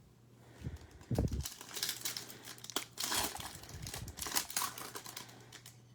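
Trading-card pack wrapper crinkling and being torn open by hand, in irregular crackling bursts, with a soft thump about a second in.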